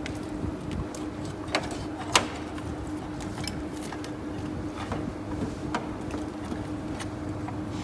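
Irregular clicks and taps of hand tools working on a car engine over a steady hum, with two sharper clinks about a second and a half and two seconds in.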